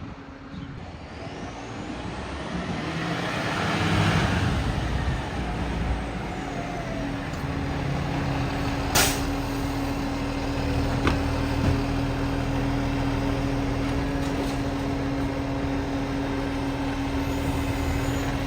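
Garbage truck's diesel engine running steadily, the truck known for an exhaust leak. The engine swells about four seconds in, and there is one sharp, loud clack about nine seconds in.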